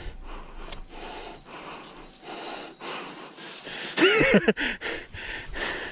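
A person breathing hard, in repeated noisy breaths, with a short voiced groan about four seconds in.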